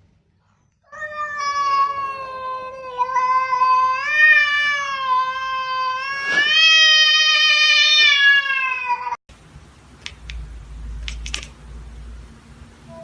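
A cat's long, drawn-out yowl, held for about eight seconds with its pitch wavering up and down, then cut off suddenly. A few faint clicks and taps follow over a low hum.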